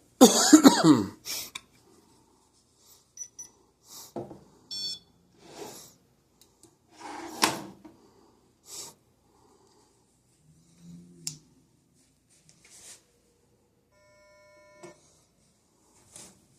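Electronic ghost-hunting gadgets being switched back on and handled: a loud gliding electronic chirp in the first second, a short high beep about five seconds in, and a steady beep tone near the end, with scattered clicks and rustles of handling between.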